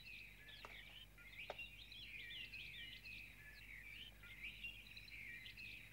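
Faint birdsong: many short, quick chirps and twitters overlapping in a steady chorus.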